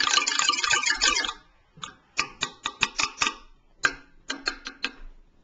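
Small hand percussion instrument played: a quick rattling clatter for about the first second, then a run of sharp separate clicks, in two groups.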